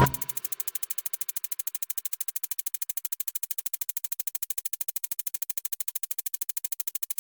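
A rapid, even ticking sound effect, about ten ticks a second and mostly high-pitched, starting as the music cuts off.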